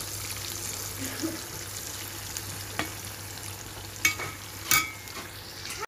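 Pieces of tempe frying in hot oil in a frying pan, a steady sizzle, with a few sharp clacks near three, four and nearly five seconds in.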